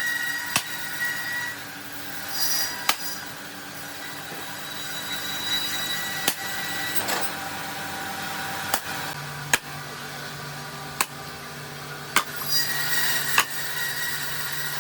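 Woodworking workshop noise: sharp knocks of wood at irregular intervals, about every one to two seconds, over a steady machine hum, with a few short swishes.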